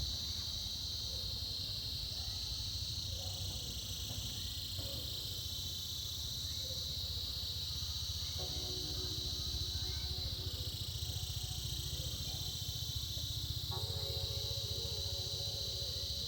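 Chorus of cicadas: a steady high-pitched buzz that swells and eases in slow waves every couple of seconds.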